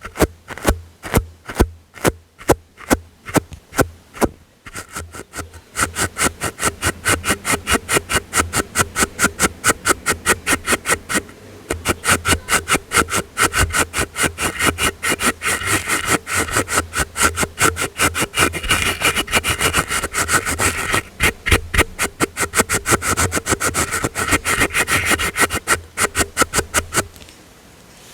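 A soft brush swept back and forth in quick repeated strokes for ASMR tingles, slower at first and speeding up after about five seconds, then stopping near the end.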